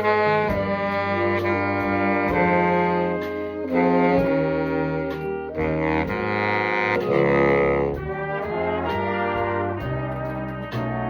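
Jazz band's horns, brass and saxophones, playing held chords that change every second or so, on a first run-through of the arrangement.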